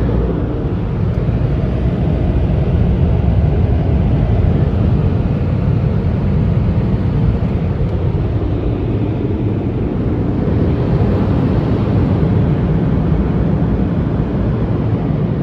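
Car wash tunnel dryer blowers running with a loud, steady rush of air.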